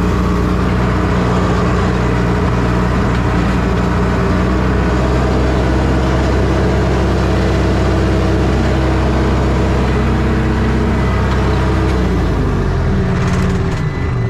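Vehicle engine running steadily at a constant pitch, its tone shifting lower near the end.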